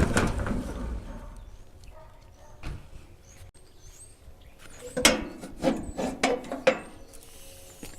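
The rumble of an electric lawn tractor being driven dies away in the first second, followed by a few scattered sharp knocks and clunks, several in quick succession about five to seven seconds in.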